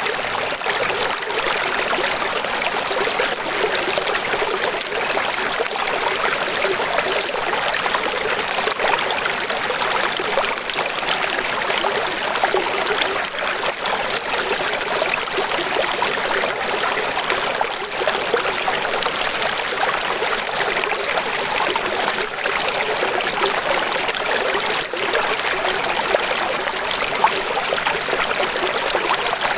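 Running water splashing and trickling steadily, with no low rumble.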